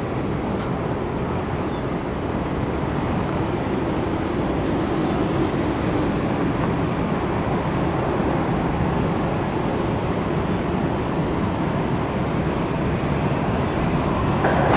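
Jet airliner's engines at takeoff power as it starts its takeoff roll, a steady rushing roar that slowly grows louder.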